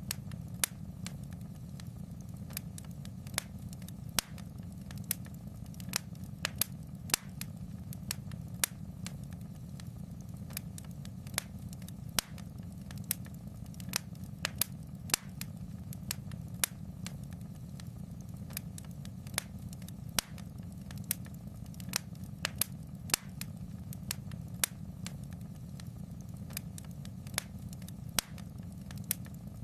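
Wood fire in a fireplace crackling: sharp pops and snaps at irregular intervals, about one or two a second, over a steady low rumble.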